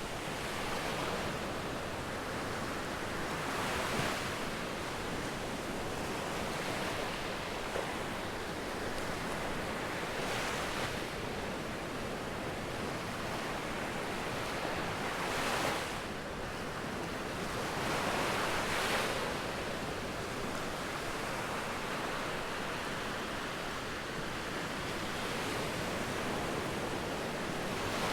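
Sea waves breaking on a beach: a steady wash of surf, with a louder wave breaking every few seconds.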